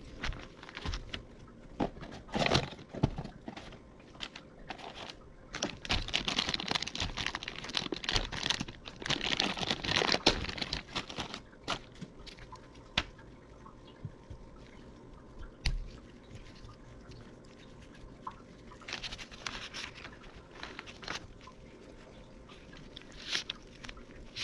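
Hands working a rubber CV boot and grease onto a half-shaft: irregular crinkling, squishing and small clicks, busiest for several seconds in the middle.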